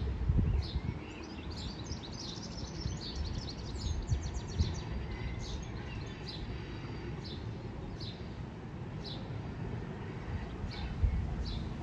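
Small birds chirping, short high calls repeating several times a second, over a steady low rumble.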